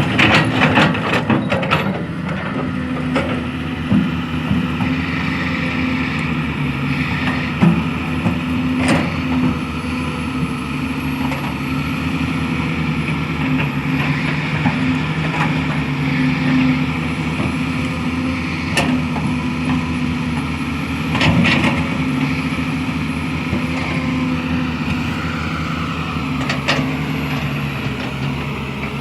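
Excavator diesel engine running steadily as it works the soil, with a cluster of knocks and rattles in the first two seconds and a few single clanks later on.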